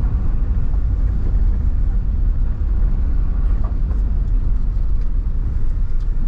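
A car driving along a snowy road, heard from inside the cabin: a steady low rumble of engine and tyre noise.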